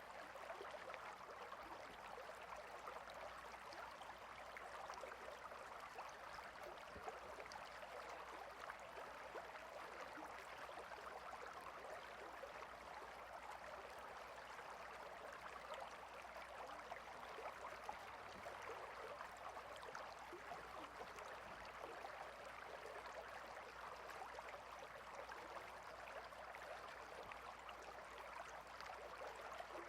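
Faint, steady babbling of a small water stream, a continuous splashing trickle with no change in level.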